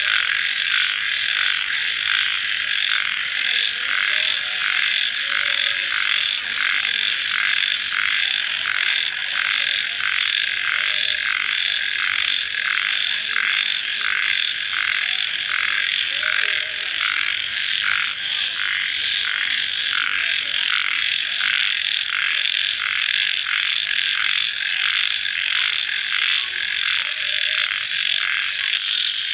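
Night chorus of crickets and frogs after rain: a dense, steady trilling that pulses evenly about twice a second, with a faint high continuous whine above it.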